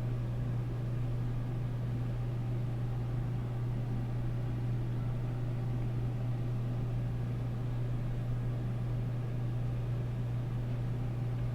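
A steady low hum over faint hiss, unchanging throughout.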